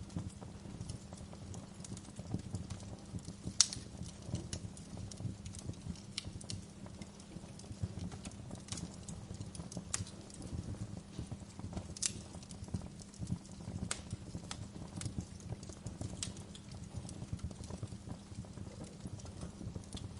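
Wood fire burning in a fireplace, crackling with irregular sharp pops over a low, steady rumble of flame. The sharpest pop comes about three and a half seconds in.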